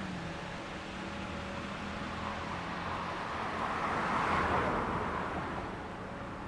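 A road vehicle passing by: its rushing noise swells, peaks about four seconds in, then fades away.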